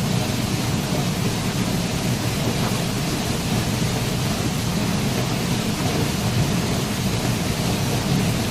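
Waterfall: a steady, unbroken rush of falling water, deepest and strongest in its low rumble.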